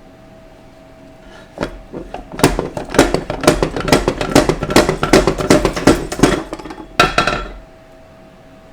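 Rapid, irregular metal-on-metal clanking and rattling from parts of a 4L60E transmission being handled during teardown. It starts about one and a half seconds in, runs for about six seconds with a low rumble underneath, and stops sharply.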